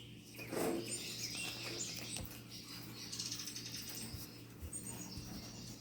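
Lovebirds chirping in the background: many short high chirps, with a quick chattering trill about three seconds in, over a steady low hum.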